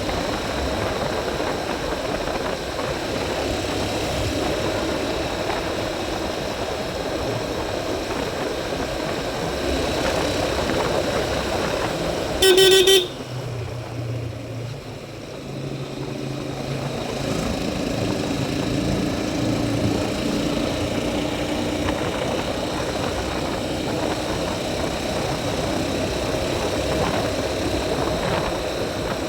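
Motorcycle running along a road, with a steady engine and road noise. A single short horn toot about halfway through is the loudest sound. After it, the engine runs lower and quieter for a few seconds, then picks up again.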